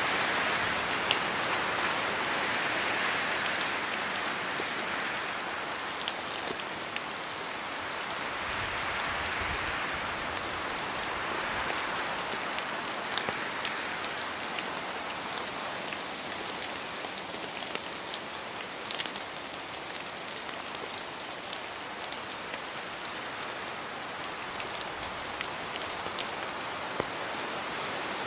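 Steady rain falling in a forest, with many individual drops ticking close by over a rushing background that swells and eases every few seconds.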